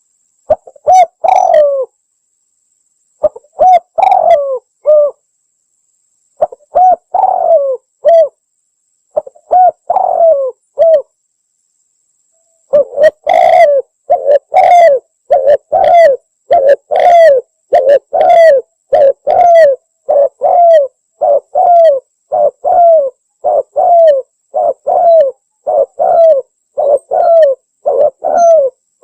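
Spotted dove (tekukur) cooing, loud: short groups of two or three coos separated by pauses in the first ten seconds or so, then an unbroken run of evenly repeated coos, a little more than one a second, from about halfway on. This is a lure call recording for attracting wild spotted doves.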